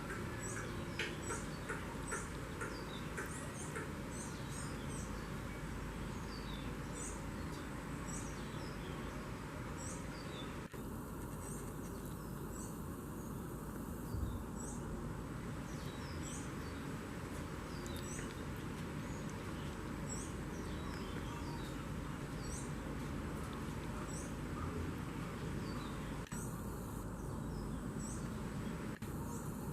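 Outdoor ambience: a steady hiss with short, high, falling chirps repeating about one or two times a second, and a soft low thump about fourteen seconds in.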